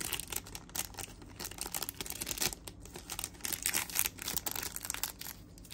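Handling noise: irregular light clicks and crinkly rustling as a Zippo lighter is turned over in the hands close to the microphone.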